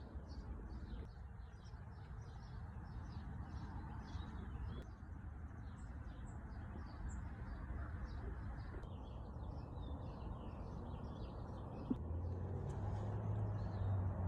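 Small songbirds chirping and twittering in quick, short notes, many overlapping, over a steady low outdoor rumble. A low hum joins near the end.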